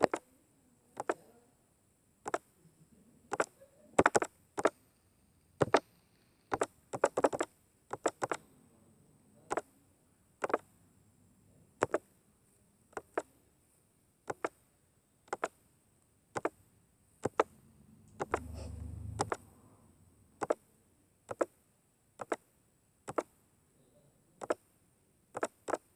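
A series of sharp clicks at uneven spacing, roughly one a second, some in quick pairs, with a brief low hum a little past the middle.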